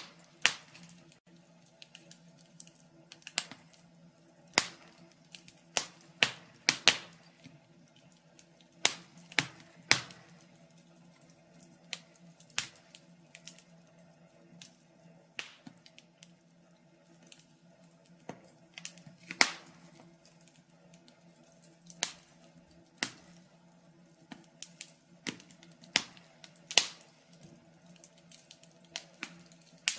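Wood fire crackling: irregular sharp pops and snaps of burning logs over a low steady hiss.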